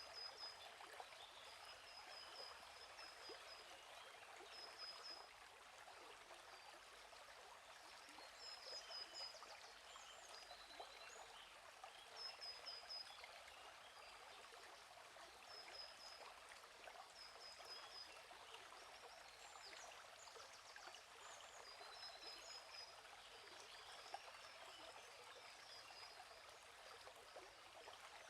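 Faint, gently flowing stream with small birds chirping: short runs of high chirps come every few seconds over the steady water.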